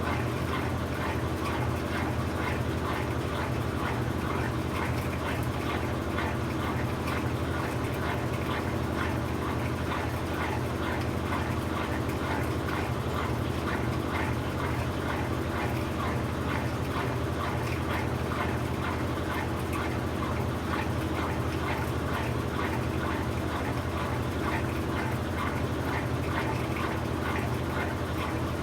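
Brastemp BWK17 17 kg washing machine running steadily on its quick cycle, with a steady motor hum and no pauses.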